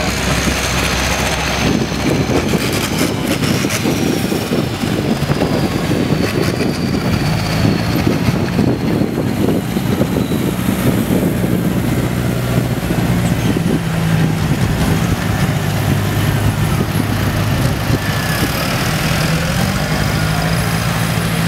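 Large tractor engines running steadily at low speed, with a faint high whine slowly falling in pitch during the first half.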